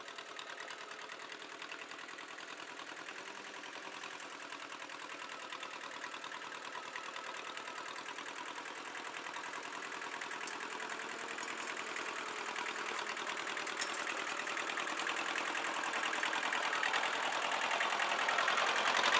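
Tractor engine running steadily with an even chugging pulse, growing gradually louder as the tractor comes closer.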